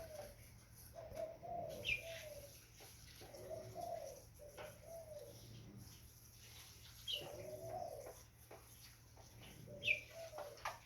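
Young spotted dove (tekukur) cooing in repeated short phrases every couple of seconds, with a few brief high falling chirps between them.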